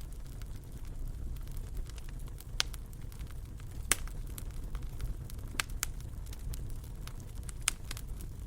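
Fire burning in a fireplace: a steady low rumble with scattered sharp crackles and pops, the loudest about four seconds in.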